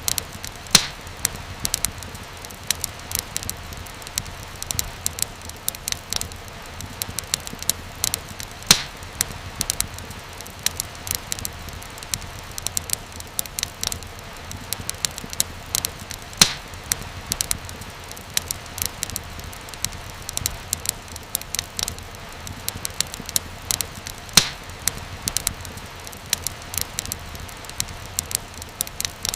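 Wood fire crackling: a steady low rustle with dense, sharp crackles and a louder pop about every eight seconds.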